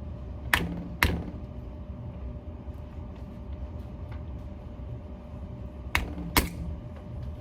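Four sharp clicks or knocks in two pairs, about five seconds apart, over a steady low hum.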